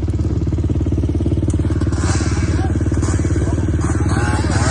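Off-road motorcycle engine running at a steady, unchanging speed, its firing pulses close and even.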